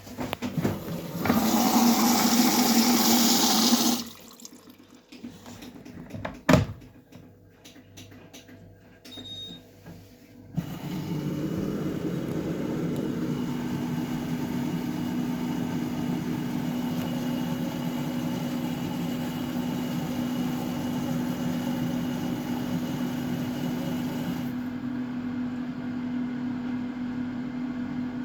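Samsung WF806U4SAGD washing machine filling with water on a 95 °C cotton drum-cleaning cycle: a steady rush of water, joined a couple of seconds later by a steady low hum. Before it there is a few-second burst of loud rushing and a single sharp click.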